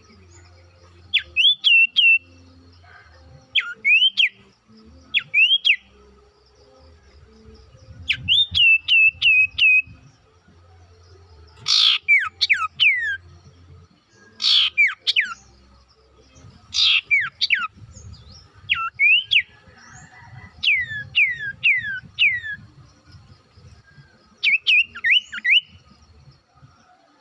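Common iora (sirtu/cipoh) singing vigorously: short phrases of three to five quick, clear whistled notes, each swooping up and down, repeated with brief pauses and a few sharper, louder notes in the middle. This is the kind of insistent song kept as a lure to set a silent sirtu singing.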